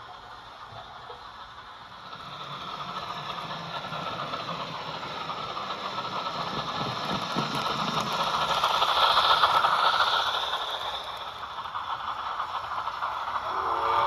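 HO scale Rivarossi model steam locomotive running, its motor and gears making a steady mechanical rattle. It grows louder over several seconds, is loudest about two-thirds of the way through, then eases off briefly.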